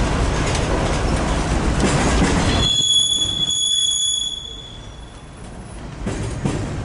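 Freight train cars rolling past with a steady rumble and rattle of wheels on rail; a little under three seconds in, the rumble drops off and a high, thin wheel squeal rings for about three seconds before the rolling noise picks up again.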